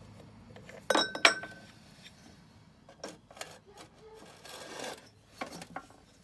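Metal tools and engine parts clinking and scraping by hand. Two sharp clinks come about a second in, the second with a brief metallic ring. Lighter taps and a short scrape follow.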